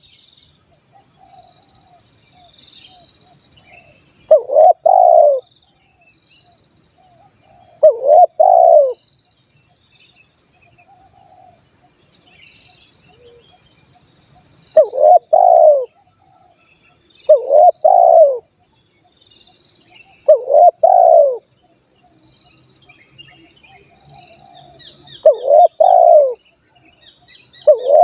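Spotted dove (tekukur) cooing: a short phrase of a few notes, about a second long, repeated seven times at gaps of two to six seconds. A steady high-pitched buzz runs underneath, with faint chirps of other birds.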